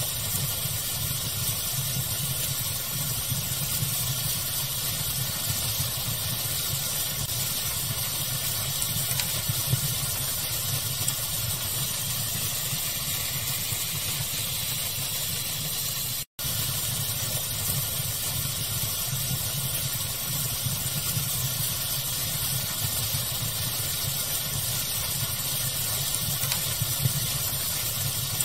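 Steady pink-noise hiss blended with a crackling fire, with a few sharp crackles standing out. The sound cuts out for an instant about sixteen seconds in.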